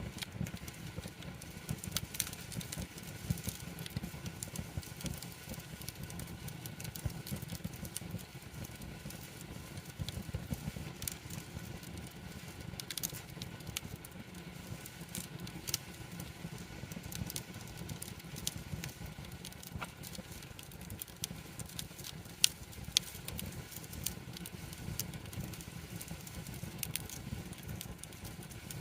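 Wood campfire crackling, with frequent small irregular pops over a steady low rumble, and two louder pops close together late on.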